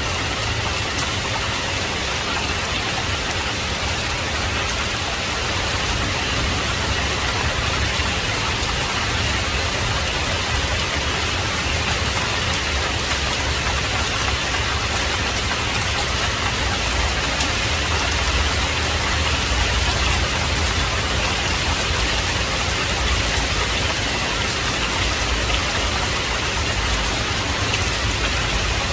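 Heavy rain falling steadily, with a low rumble underneath that swells slightly about two-thirds of the way through.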